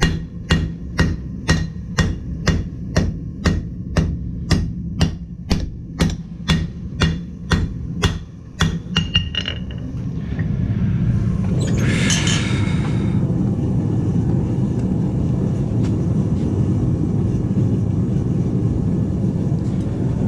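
Hammer blows on hot metal at an anvil, about two a second for some eight seconds, then a few last strikes, one of them ringing. The hammering stops and a steady low rumble carries on, with a brief hiss a couple of seconds later.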